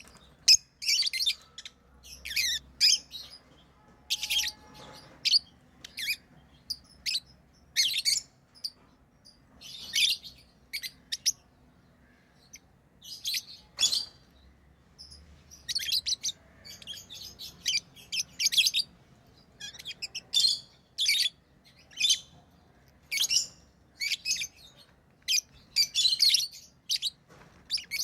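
Pet lovebirds chirping: short, sharp, high-pitched calls in quick clusters, coming every second or so with brief pauses between them.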